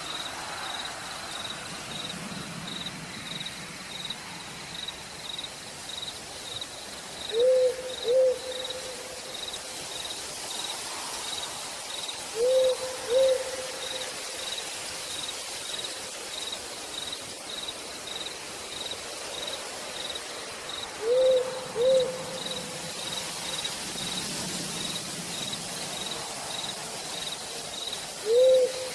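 Steady rain in a forest at night, with an insect chirping faintly about twice a second throughout. An owl hoots loudly in quick two-note pairs, four times, several seconds apart.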